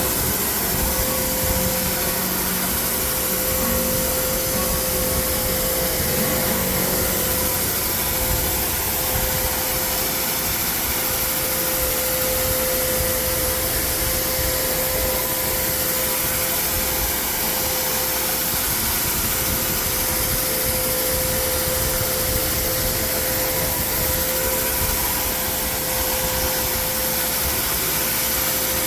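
Carpet extraction machine's vacuum running steadily with a constant whine, as the cleaning wand draws hot water out of carpet.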